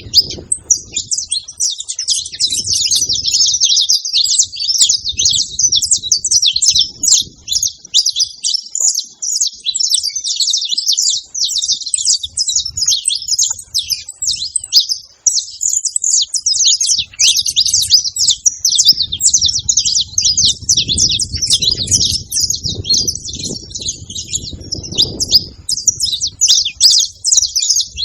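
Saffron finches (canário-da-terra) singing: a dense, unbroken run of rapid high chirps and trills. A low rumble comes and goes beneath it, strongest in the second half.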